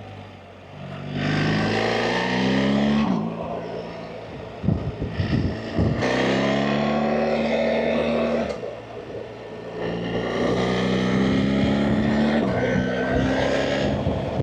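BMW R 1300 GS Adventure's boxer-twin engine pulling under throttle, heard from the rider's seat. Its revs climb three times, each ending in a sudden drop as the rider shifts or rolls off, and wind buffets the microphone between the pulls and near the end.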